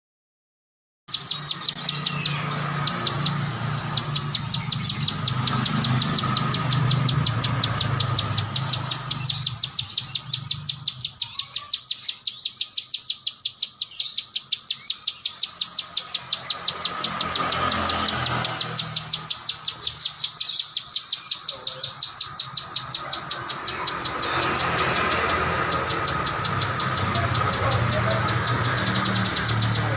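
Songbird calling without pause: a rapid, evenly repeated run of high chipping notes with sharp peaks about three times a second. It starts abruptly about a second in.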